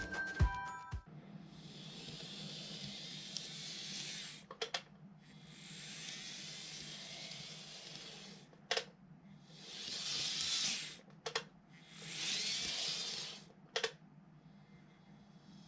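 Model train packaging being handled: four stretches of rustling, sliding plastic, each broken off by a sharp click.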